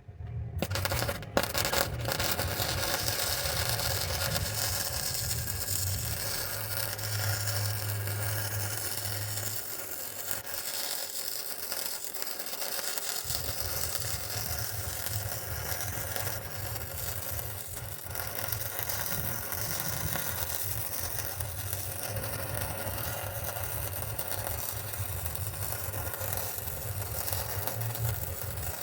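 Wire-feed welder arc crackling steadily as a long bead is laid, starting about half a second in, with a low hum underneath that drops out for a few seconds near the middle.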